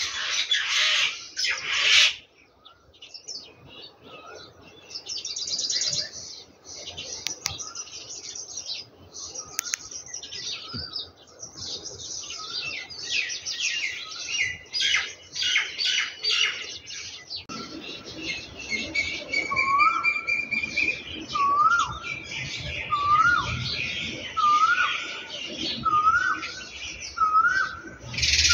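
Songbirds chirping and twittering, many quick overlapping calls. From about two-thirds of the way through, one bird repeats a short rising call about once a second.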